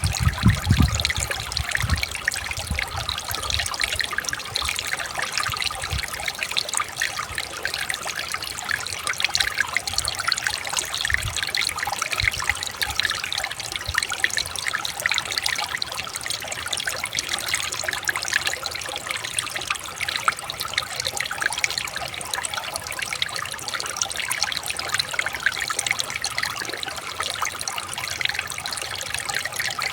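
Water running steadily over stones in a river or stream, a continuous babbling trickle, with a few brief low thuds near the start.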